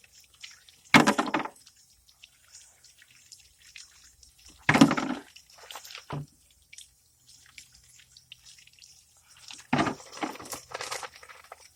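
Water dripping and splashing during cleaning of a refrigerator-box filter, with small drips throughout. Three louder splashes come about a second in, around five seconds in and near the end.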